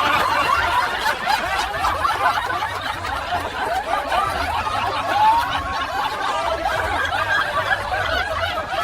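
A crowd laughing, many voices overlapping in a steady wash of laughter.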